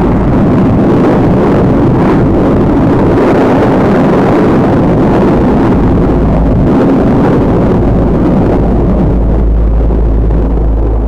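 Jet engine noise from a formation of Fouga Magister jet trainers flying an aerobatic display: a loud, steady rushing sound over a deep rumble.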